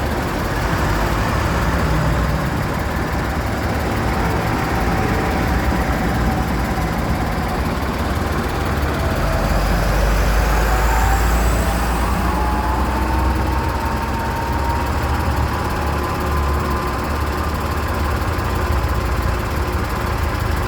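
Tractor engines running as tractors drive past one after another in a procession, a steady low rumble with a rising whine about halfway through.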